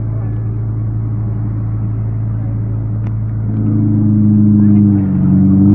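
Car engine idling with a steady low note; about three and a half seconds in a higher engine note joins and the sound grows louder.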